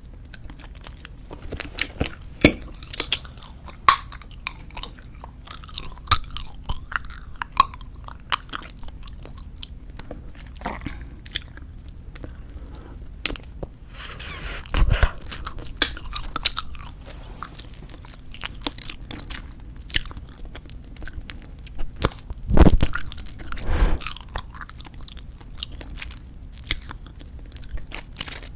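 Close-miked chewing of soft tube bubblegum: continual wet clicks and smacks of the mouth working the gum, with a few louder moments about halfway through and again about two-thirds of the way in.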